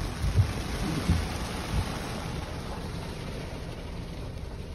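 Heavy rain with wind noise: a steady rushing hiss, with a few low thuds in the first two seconds.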